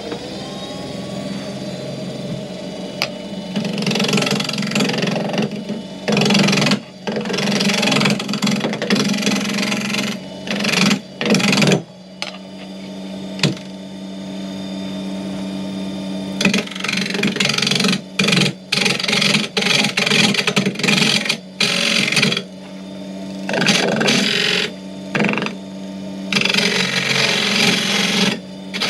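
Wood lathe motor spinning up and then running steadily, with a turning gouge cutting into the spinning wood blank in repeated strokes of a second or two each, separated by short pauses.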